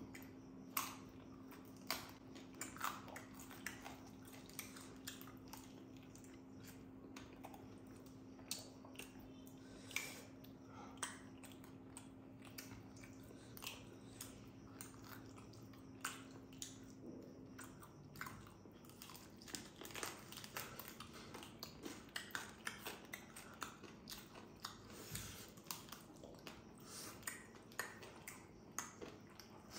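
Chewing and biting into grilled barbecue meat, with irregular soft clicks and smacks that come more often toward the end. Under it is a faint steady hum that stops a bit over halfway through.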